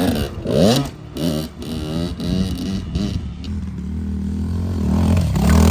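Dirt bike engine revving on and off the throttle, its pitch repeatedly rising and falling, then settling into a steadier, louder drone that builds near the end.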